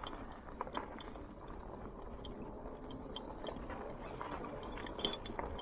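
Rad Mini e-bike being ridden slowly: a low, steady rush of tyre and wind noise with a few faint scattered clicks and rattles.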